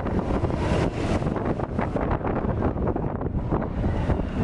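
Wind buffeting the microphone over the rumble of a roller coaster train running along its track, with a rapid rattle in the second half.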